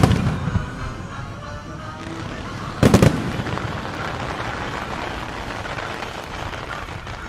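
Starmine fireworks barrage bursting: a quick string of sharp bangs at the very start and another cluster about three seconds in, over a steady bed of noise from the show.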